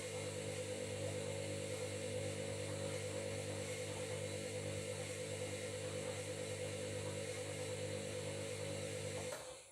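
Washing machine running with a steady hum and whine that pulses faintly. The sound cuts off quickly about nine seconds in.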